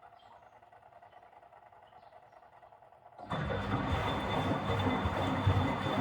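Miele W761 washing machine pausing with only a faint hum, then its motor starts turning the drum again about three seconds in: a sudden, loud, steady rumble with a constant high whine.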